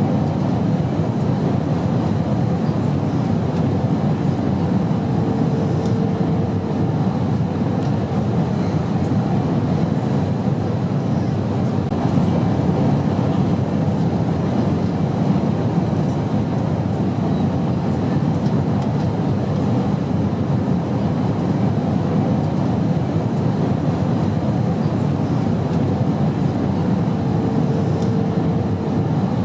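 Steady, even airplane noise, a continuous low drone without breaks. A faint tone comes in briefly twice, about five seconds in and near the end.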